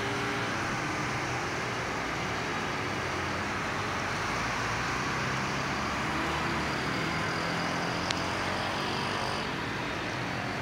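Road traffic on a rain-soaked street: vehicle engines running over a steady wash of water and tyre noise, with a single sharp click about eight seconds in.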